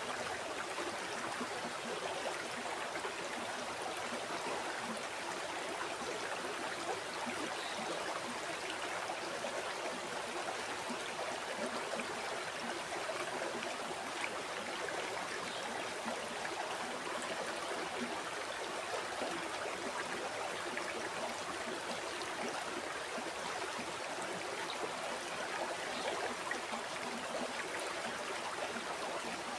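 River water flowing steadily over rocks, an even rushing babble with small splashes and gurgles throughout.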